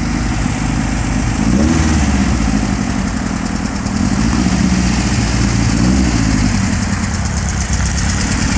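2276cc performance engine idling, with a few light blips of the throttle. The owner says the muffler is bad and makes a noise.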